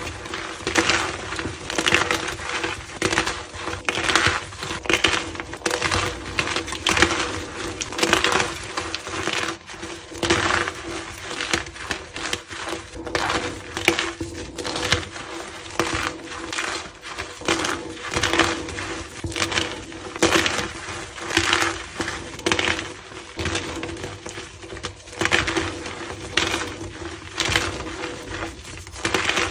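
Blocks of gym chalk being crushed and crumbled, a continuous run of dry crunches and cracks, about one or two a second, with a faint steady hum underneath.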